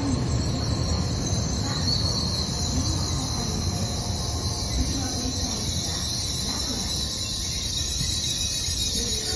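N700-series Shinkansen train running past close by on the station tracks: a steady low rumble of wheels on rail with a bright high hiss over it.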